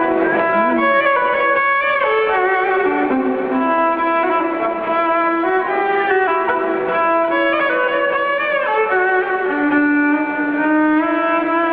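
Live folk-rock band music led by a fiddle playing a melody of held notes with slides between them.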